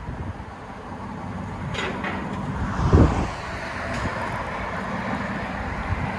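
Exhaust of a 2018 Dodge Durango R/T's 5.7-litre HEMI V8, its centre muffler deleted and straight-piped back to the stock rear resonators, running steadily with a short, loud swell about three seconds in.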